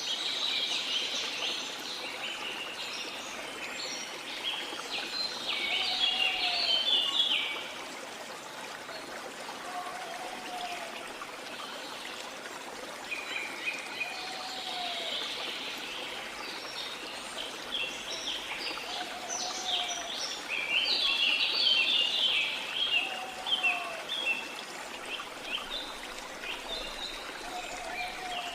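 Waterfall water running steadily, with birds singing in bursts of rapid chattering notes. A short, low, rising-then-falling call repeats about every four seconds.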